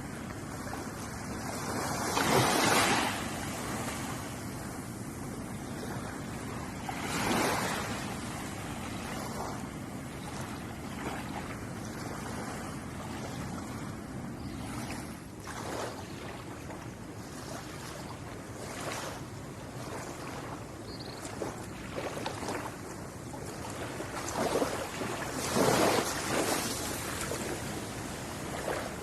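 Ocean waves breaking on a shore: a steady wash of surf with louder breaks about two to three seconds in, near seven seconds, and strongest near the end.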